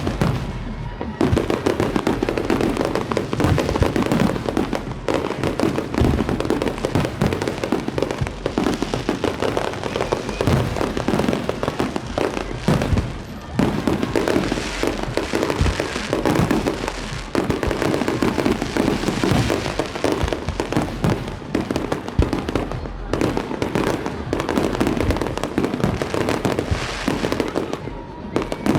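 Many fireworks and firecrackers going off at once, a dense, unbroken crackle of overlapping bangs and pops.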